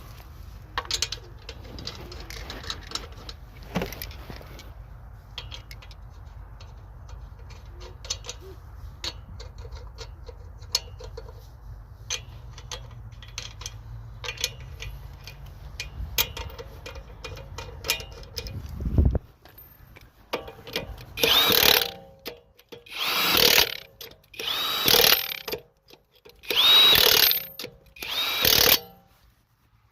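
A steady low hum with scattered clicks runs until about two-thirds through and then stops. An impact wrench then runs in five short, loud bursts about a second and a half apart, as when driving a wheel's lug nuts.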